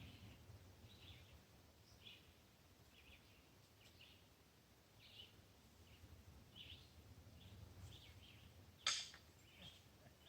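Near quiet, with small birds giving short, faint, high chirps every second or so. One sharp click about nine seconds in stands out as the loudest sound.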